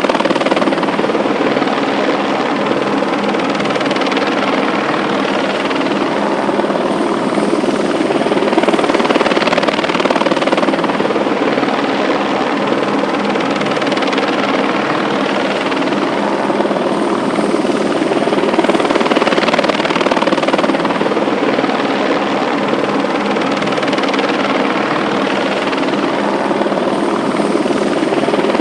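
Loud, steady mechanical drone that swells and eases gently every few seconds, with no break.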